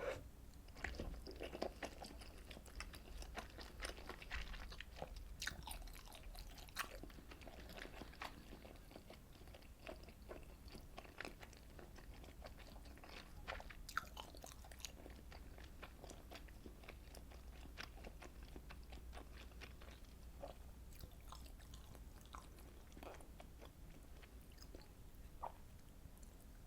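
Close-miked chewing of Korean fish cake soup with rice cake, made up of many small mouth clicks and bites. They come thick in the first half and thin out later.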